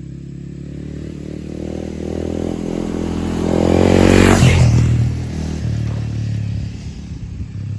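Honda CRF250L motorcycle with a Yoshimura RS-4J Cyclone exhaust riding past. Its single-cylinder engine note grows louder, peaks with a rush about halfway through, then fades away.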